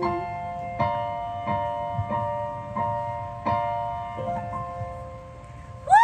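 Piano playing the closing chords of a song, a chord struck about every two-thirds of a second, each ringing on and the whole fading toward the end. At the very start, the last held sung note trails off.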